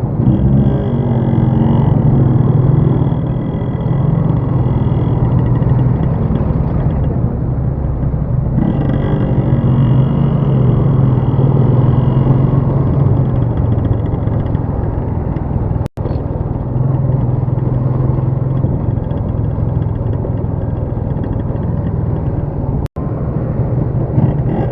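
Steady low rumble of a moving vehicle's engine and road noise. The audio drops out completely for an instant twice in the later part.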